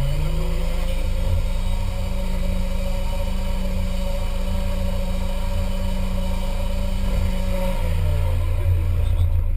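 Off-road 4x4's engine rising from idle to a higher speed, held steady for about eight seconds, then dropping back to idle.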